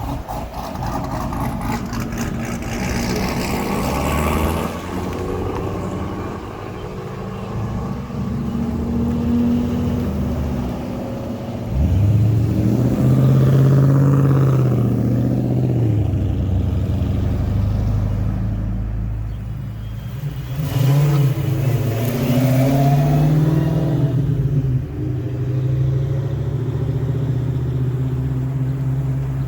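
Road traffic: car engines running and accelerating past, with two louder swells of engine note that rise and fall, about twelve and about twenty-one seconds in.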